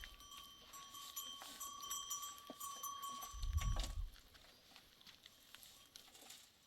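Livestock bells on a herd of goats and sheep, a clear ringing tone held for about three seconds among scattered clinks, with a brief low rumble about three and a half seconds in.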